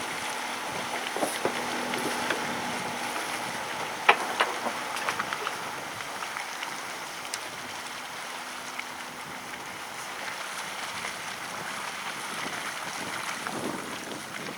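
Steady outdoor wind and water noise, with a cluster of sharp knocks about four seconds in.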